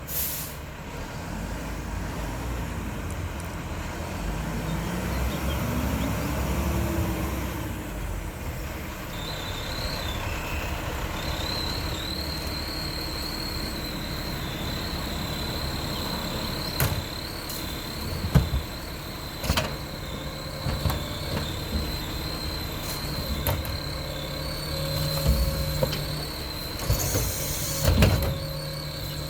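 Mack LR garbage truck with a Heil Half Pack front-loader body running, with a steady high whine from about nine seconds in. Several sharp clanks and knocks come in the second half.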